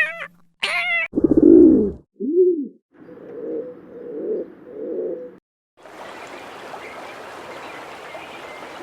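Pigeon cooing: a low rough coo, a short coo, then three more coos over the first five seconds. A steady hiss follows from about six seconds in.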